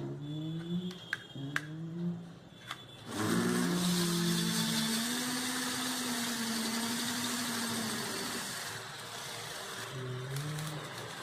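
A few clicks as the USB plug goes into the power bank, then about three seconds in two small toy DC motors with plastic fans start up and whir steadily at high speed, easing off slightly near the end.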